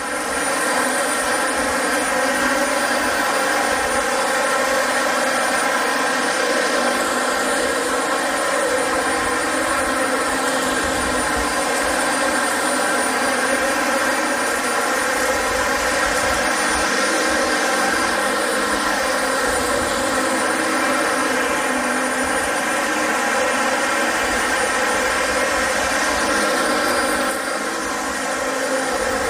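Dyson upright vacuum cleaner running over carpet: a steady motor whine with many overtones over a rushing airflow. It drops slightly near the end.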